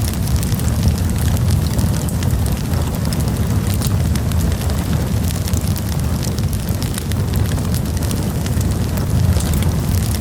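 Wood campfire burning, with many small sharp crackles and pops over a steady low rumble.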